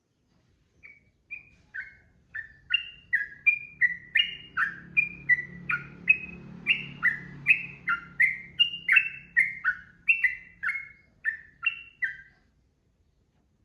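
Sooty-headed bulbul (trucukan) singing a long unbroken run of short, clear notes, about two or three a second, stepping up and down in pitch. The run starts about a second in and stops near the end.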